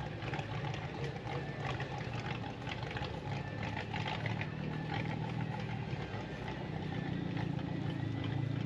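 A car engine running steadily at idle, getting a little louder near the end.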